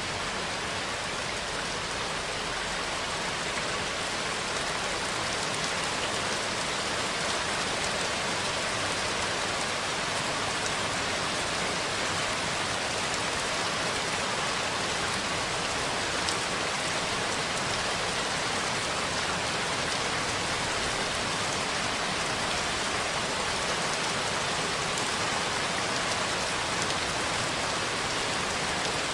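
Steady rain falling on a surface, an even hiss with scattered faint drop ticks and no thunder.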